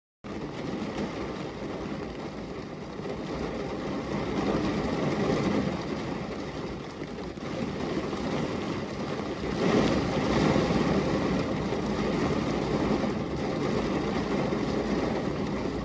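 Thunder rumbling over heavy rain, starting suddenly out of silence; a continuous low rumble with a hiss of rain that swells about four seconds in and again, loudest, near ten seconds.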